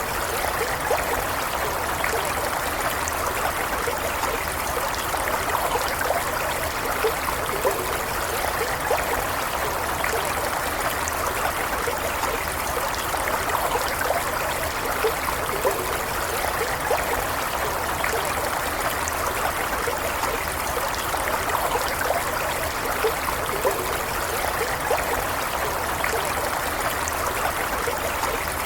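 Stream water running steadily over stones, with small trickling and bubbling sounds throughout.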